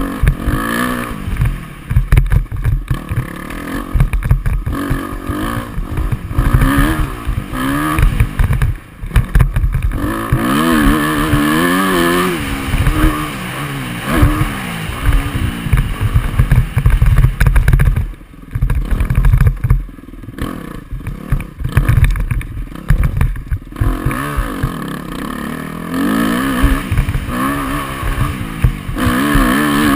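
Motocross dirt bike engine revving up and falling back over and over as the throttle is worked through the track. A few times the throttle is chopped and the engine drops off briefly, most clearly about two-thirds of the way through.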